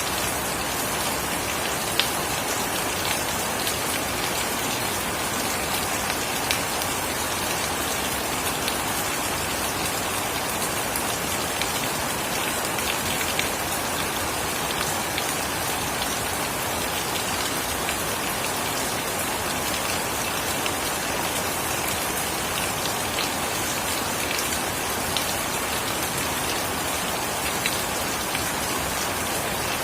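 Steady rain falling, with scattered louder drop taps standing out now and then.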